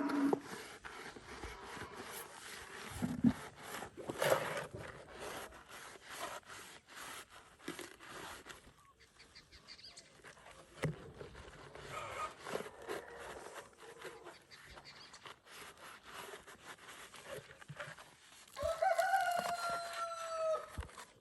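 A rooster crows once near the end, a long call of about two seconds that falls slightly in pitch. Before it come scattered knocks and scrapes as a plastic chicken drinker is handled and cleaned, with faint clucking.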